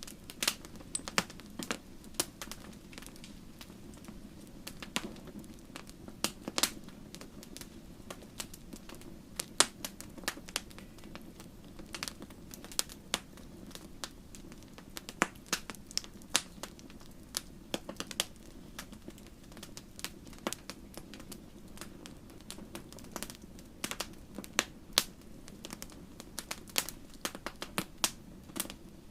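Wood fire crackling in a fireplace: irregular sharp pops and snaps, a few of them louder, over a steady low hum.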